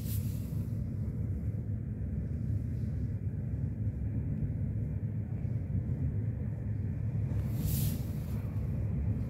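Steady low rumble of an electric commuter train rolling out of a station, heard from inside the passenger cabin. A short hiss cuts in once, near the end.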